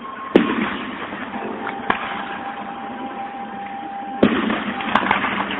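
Fireworks going off, recorded through a phone's microphone: a loud bang about half a second in, a smaller one near two seconds, then another bang a little after four seconds followed by about a second of crackling pops.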